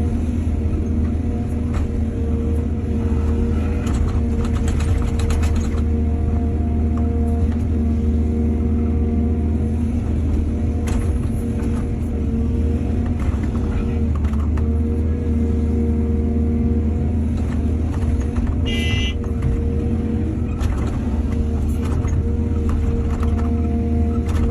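Excavator's diesel engine running steadily under load, with scattered knocks and clanks of the machine at work. A brief high-pitched tone sounds once, near the end.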